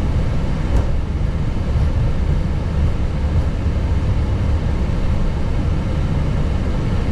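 Steady low rumble of engine and air noise in the cockpit of an Airbus A321neo.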